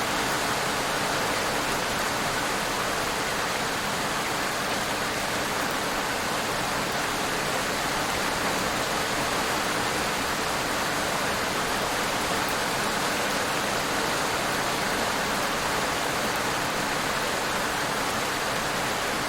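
Rain falling steadily: an even hiss of rainfall at a constant level, with no single drops or thunder standing out.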